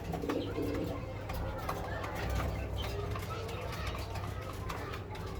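Pigeons cooing, with short chirps from other birds over a steady low hum.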